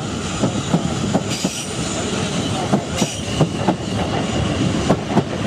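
Electric multiple-unit passenger train passing close by, its wheels clattering in an irregular run of sharp clicks over pointwork and rail joints, with a faint steady high squeal from the wheels.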